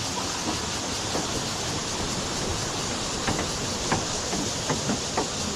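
Steady rushing of a fast, clear mountain creek flowing over rocks, with a few sharp, irregular clicks in the second half.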